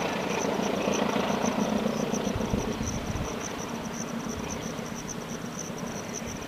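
Rumble of the Argo Gede passenger train fading as it rolls off the far end of a steel trestle bridge. A high insect chirp pulses steadily throughout.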